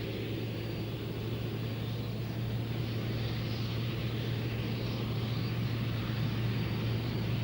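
Helicopter in flight: a steady low engine and rotor hum over a rushing noise, growing slowly louder.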